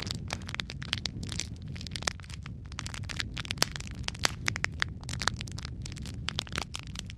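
Fireplace fire crackling: a dense, irregular run of sharp pops and snaps over a steady low rumble.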